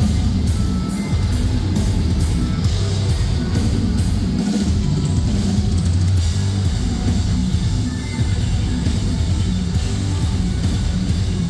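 Metalcore band playing live and loud: distorted electric guitars and bass over a drum kit, with regular cymbal hits in the first few seconds.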